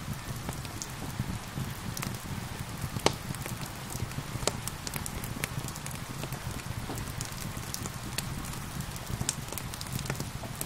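Wood fire crackling with irregular sharp pops, over a steady hiss of gentle rain.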